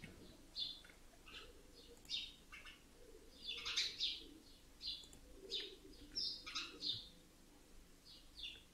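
Faint bird chirps: short, high calls repeating irregularly.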